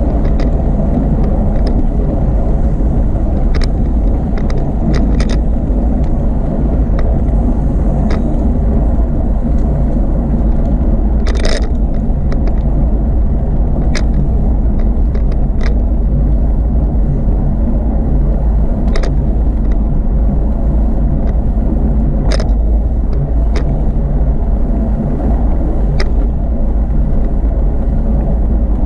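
Steady low rumble of a bicycle in motion heard through the rider's camera: wind buffeting the microphone and tyre noise on the path, with scattered sharp clicks and rattles from bumps.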